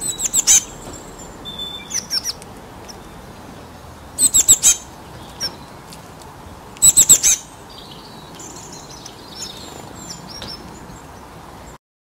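Small songbird calling in four quick bursts of several high, downward-sweeping notes each, with a few fainter calls later.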